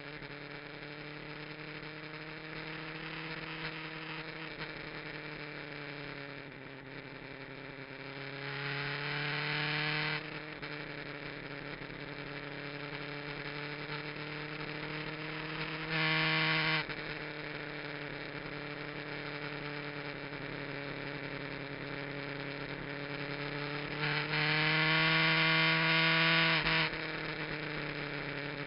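Kawasaki GPZ900R's inline-four engine running on track, its pitch slowly rising and falling with the throttle. The note turns louder and brighter three times: about a third of the way in, briefly around the middle, and for a few seconds near the end.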